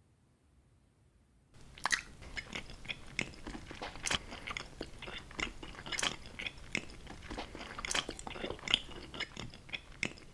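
Close-miked crunchy chewing and biting, a dense run of sharp crackles and crunches that starts suddenly about a second and a half in.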